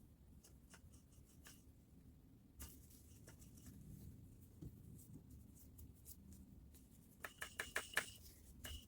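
Faint clicks and scrapes of small parts and tools being handled during disassembly of a reciprocating saw, ending in a quick run of about six sharp clicks with a slight ring.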